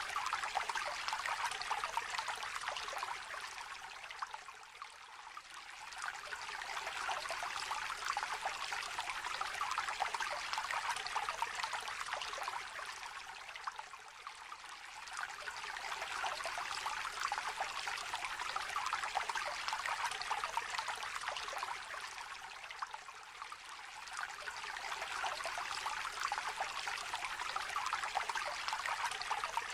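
Small shallow stream trickling and babbling over stones, a steady water sound that eases and swells again every nine seconds or so.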